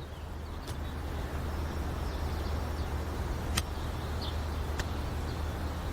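Outdoor ambience: a steady low rumble with scattered short bird chirps and a couple of faint clicks.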